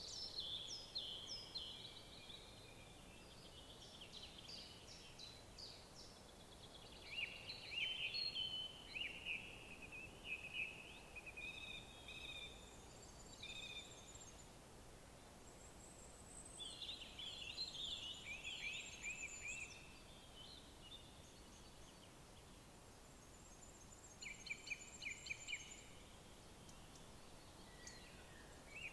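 Wild songbirds singing in several bouts of quick, sliding notes over a soft, steady background hiss, with a faint, rapid, high-pitched trill from another bird now and then.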